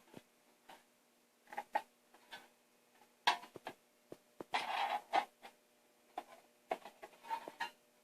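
Aluminum strip being handled and worked by hand against a workbench: irregular light taps and clicks, with a brief scraping rub about four and a half seconds in.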